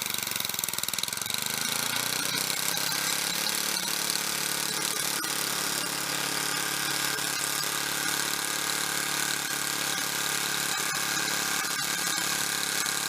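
Small gasoline snowblower engine running steadily; its speed dips briefly about a second in and comes back up.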